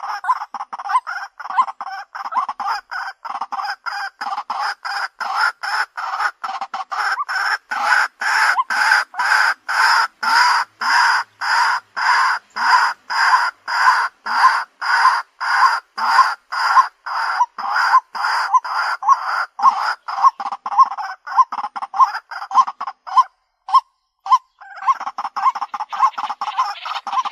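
White-breasted waterhen calling: a long run of short, harsh, evenly repeated notes at about two to three a second, breaking off briefly near the end and then starting again.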